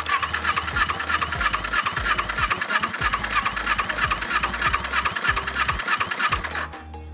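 Kawasaki Ninja 250 parallel-twin engine being cranked on its electric starter after the rebuild: a fast, even pulsing churn that stops abruptly near the end.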